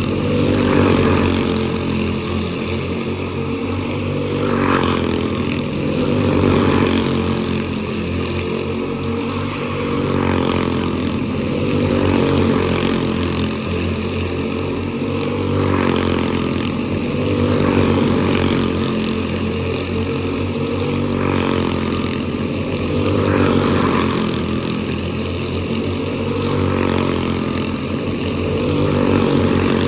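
Quarter midget race cars' small single-cylinder engines running laps, the engine note rising and falling every two to three seconds as they accelerate down the straights and ease into the turns.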